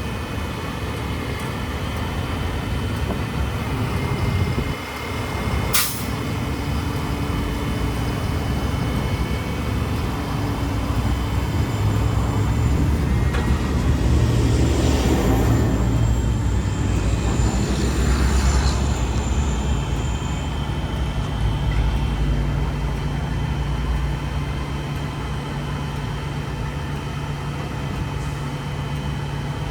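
Hino L7 garbage truck's diesel engine running steadily, getting louder and working harder through the middle before settling back. A single short, sharp burst cuts through about six seconds in.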